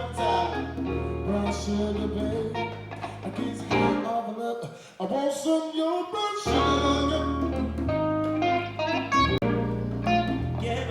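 Live Latin-style band music led by guitar over a steady bass line. The bass drops out about four seconds in and comes back about two and a half seconds later.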